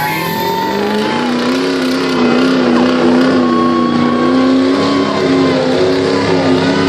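Pulling truck's engine running hard under load, its pitch climbing over the first couple of seconds, then held high and steady.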